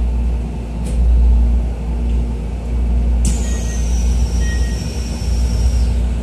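Steady low hum of a stopped Keisei New 3000 series electric train's on-board equipment, heard inside the car, with a light click about a second in. About three seconds in, a sudden hiss of released air starts, carrying a high whistle that slowly falls in pitch and lasts over two seconds.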